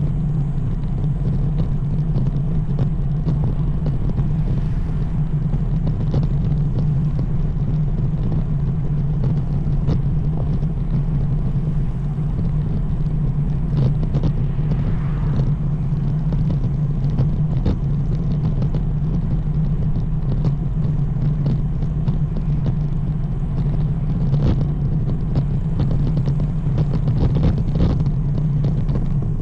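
Steady low rumble of wind and road noise picked up by a camera on a moving road bike, with small knocks and rattles from the road surface.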